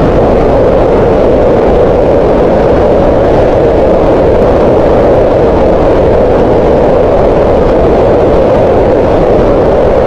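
Green noise: a steady, unchanging rush of noise with its energy gathered in the middle, around 500 Hz, and less in the deep lows and high hiss.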